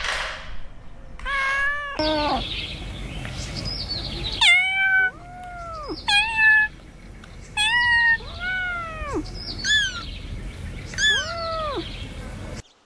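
Cats meowing repeatedly: about ten separate meows, each rising and then falling in pitch, with a change of background about two seconds in. The sound cuts off suddenly near the end.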